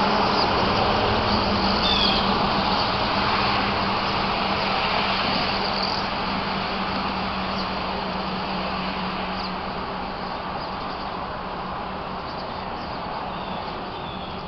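Steady rushing noise with a low hum, slowly fading, like a motor vehicle going by, with a few faint short bird chirps over it.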